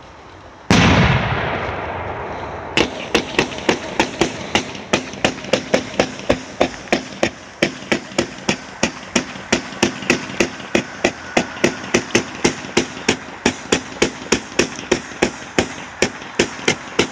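A fireworks cake firing a long, even string of sharp shots, about three a second. Before it, one loud bang about a second in fades away over a couple of seconds.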